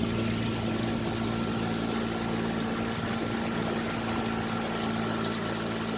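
Motorboat engine running steadily at an even speed, a constant low hum.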